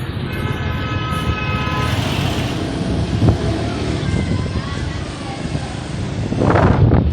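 Street traffic with engines and road noise, and a vehicle horn sounding one steady tone for about a second and a half near the start.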